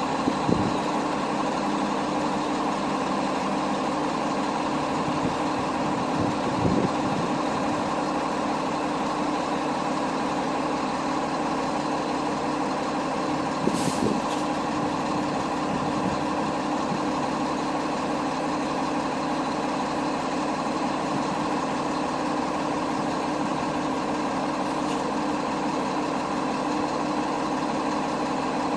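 Truck engine running steadily, a continuous drone. A few brief sharp knocks break through, the clearest about 14 seconds in.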